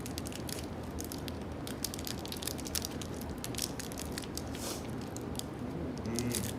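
Soft crinkles and scattered small clicks of a candy wrapper being handled and opened.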